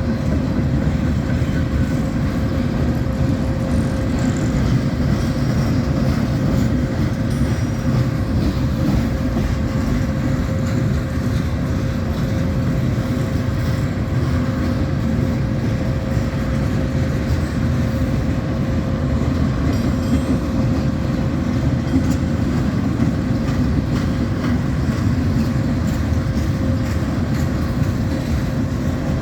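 Train running steadily: a continuous loud rumble with a steady hum-like tone over it, unchanging throughout.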